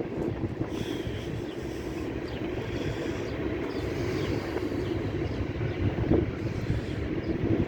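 Canadian Pacific manifest freight train rolling past, a steady rumble of cars and wheels on the rails.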